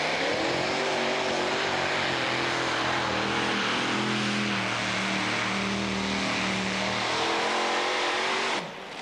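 Pulling tractor's engine running hard under load during a pull: a loud, steady engine roar with a held, slightly wavering pitch. It drops off abruptly near the end.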